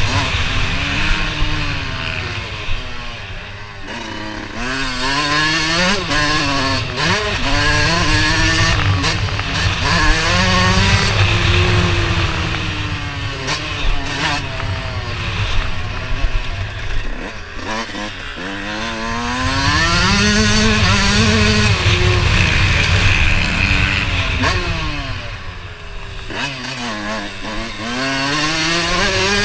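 Motocross bike engine revving hard and easing off again and again, its pitch climbing and dropping repeatedly, with several deeper dips in speed along the way.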